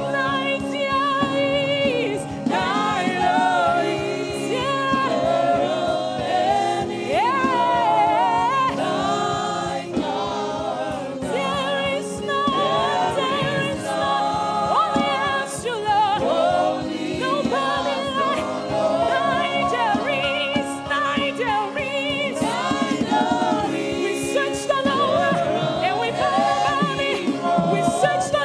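Gospel worship singing: a choir and congregation singing with accompanying music, voices gliding between long held notes.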